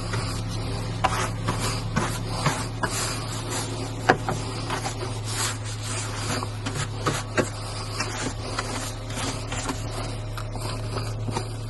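A car driving on a snowy road, heard from inside: a steady low hum with scattered ticks and crackles throughout, one sharper tick about four seconds in.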